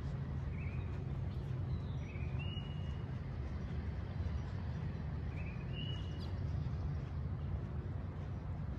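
A songbird calling twice, a few seconds apart: each call is a short note followed by a longer, slightly higher level whistle. Under it runs a steady low outdoor rumble.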